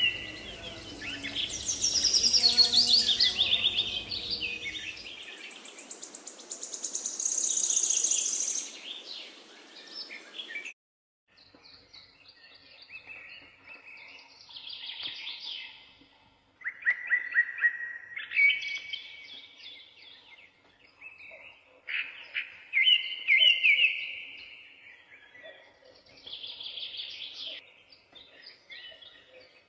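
Birds singing: repeated short chirping phrases made of quick falling trills. The sound drops abruptly in level about eleven seconds in, and the birds carry on more quietly.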